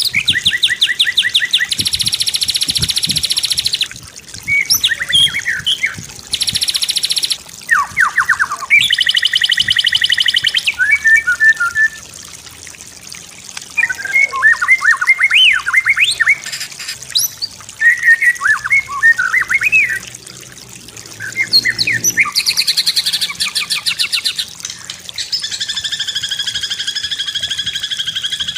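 White-rumped shama (murai batu) song in a varied run of phrases: fast rattling trills of repeated notes, quick whistled sweeps up and down, and a held buzzy phrase near the end, with short pauses between bursts.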